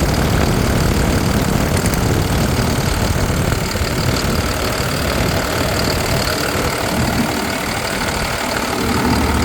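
Peterbilt box truck's diesel engine idling steadily. The seller sees almost no blow-by at it.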